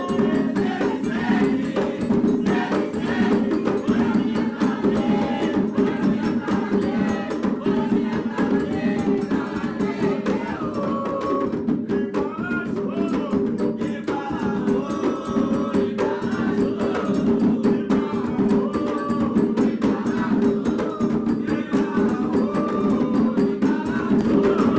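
Candomblé drumming on atabaque hand drums with a steady, dense beat, and voices singing a chant over it: a toque for the orixá Oxum.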